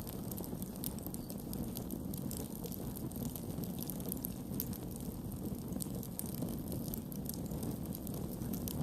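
Campfire burning: a steady low rush of flames with frequent small, irregular crackles and pops from the burning wood.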